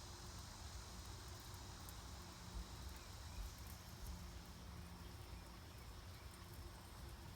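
Fire starters burning with a faint crackle: a few small, sparse ticks over a low steady rumble.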